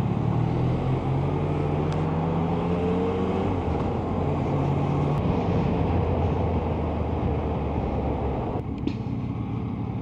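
Yamaha Tracer 900's three-cylinder engine running under way in slow traffic, its pitch rising for a couple of seconds as it pulls away, over steady wind rush; the rush eases near the end.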